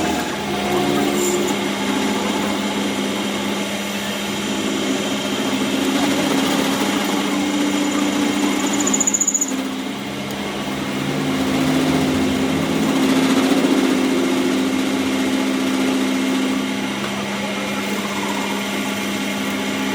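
A power tool or workshop machine running steadily with a low hum, dipping briefly about halfway through.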